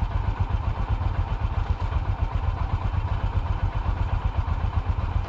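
Royal Enfield single-cylinder motorcycle engine running with a fast, low pulsing thump, heard from on the bike.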